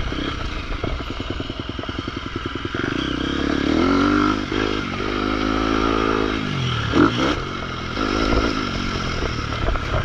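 Motocross bike engine on the track, pulsing at low revs for the first few seconds, then revving up about three seconds in and holding high. It drops away sharply around seven seconds in with a brief loud burst, then runs on steadily.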